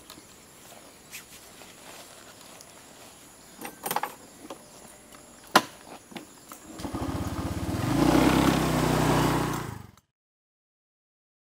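Honda motorcycle engine starting a little under seven seconds in, swelling as it is revved and running steadily for about three seconds, then cut off abruptly into silence. A few light clicks and knocks come before it.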